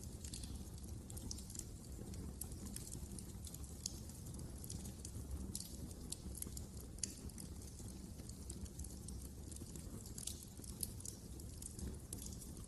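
Fire burning in a fireplace, crackling with frequent small sharp pops and snaps at irregular intervals over a low, steady rumble of flames.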